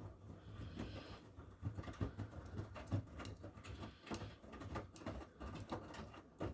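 Miele W1 front-loading washing machine washing: the drum turns and the wet laundry tumbles in it with soft, irregular thumps over a low motor hum.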